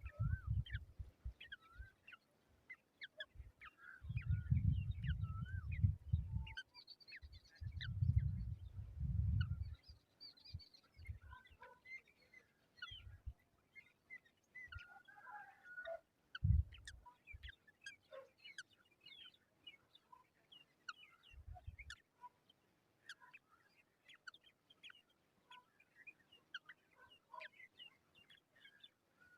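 Many short bird chirps and calls, scattered and overlapping, with two longer bouts of low rumble on the microphone in the first third.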